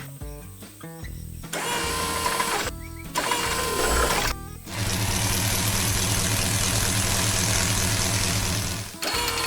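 Cartoon soundtrack: background music with machine sound effects cut in. In the second half a steady engine-like drone with a low hum runs for about four seconds and stops abruptly.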